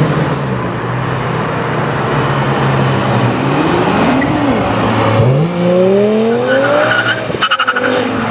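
BMW M5 E61's 5.0-litre V10 running steadily, then revving up in one long rising pull as the car accelerates away. The pull ends in a quick run of sharp crackles near the end.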